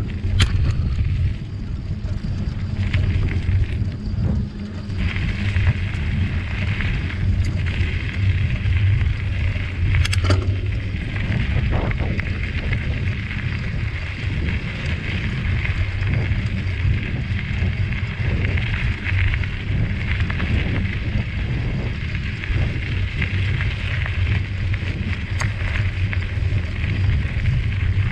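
Bicycle being ridden: a steady low rumble of tyres and wind on the microphone, with a few sharp clicks and rattles.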